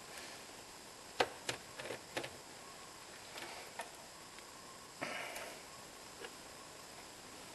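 A few scattered light clicks and knocks from tools and parts being handled during the water pump fitting, with a short scrape about five seconds in, over a steady low hiss.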